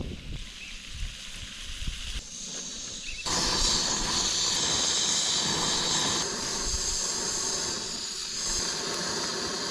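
Cooking over a camp stove: a steady hiss that switches on abruptly about three seconds in and holds evenly. Before it there is low, uneven wind buffeting on the microphone.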